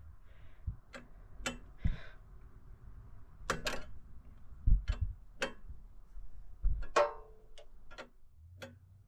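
Scattered metal clicks and clinks with a few dull knocks as the Corvair's carburetors are unbolted and lifted off as one unit; one clink about seven seconds in rings briefly.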